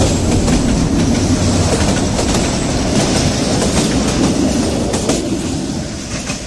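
Train running along the track, its wheels clacking over the rail joints, fading away near the end.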